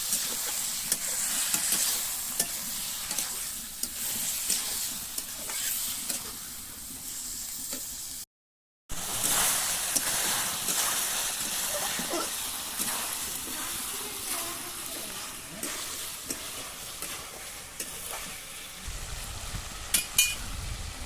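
Spiced chicken frying in oil in a kadai, sizzling steadily while a spatula stirs and scrapes it, with scattered clicks. The sound cuts out completely for about half a second around eight seconds in, and a few louder knocks come near the end.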